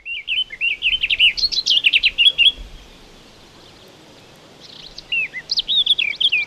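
A songbird singing in quick, varied chirping phrases, falling quiet for about two seconds in the middle before singing again.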